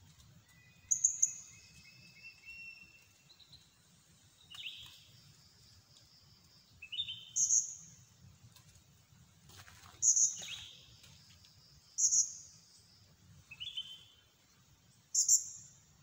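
Small birds calling in the open: sharp, high-pitched chirps every two to three seconds, several of them paired with a shorter, lower call. A few thin whistled notes come near the start.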